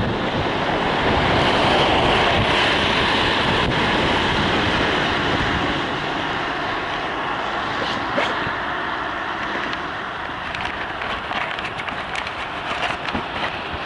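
Steady road and wind noise of a car on the move, easing off slightly about halfway through, with a few faint clicks near the end.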